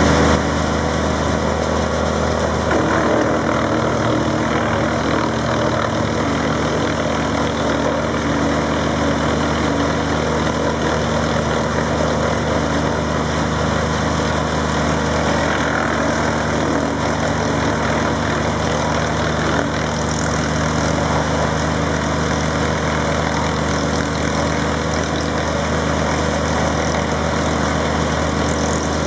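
Teknamotor 280 SDB drum wood chipper running steadily, its drive note holding constant apart from a slight shift in pitch about two and a half seconds in.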